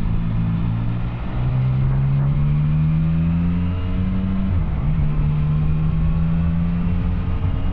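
Yamaha Tracer 900's three-cylinder engine through an Arrow exhaust, under way: the engine note drops about a second in as the rider shifts up, climbs steadily under acceleration, drops again with a second upshift around the middle, then holds steady.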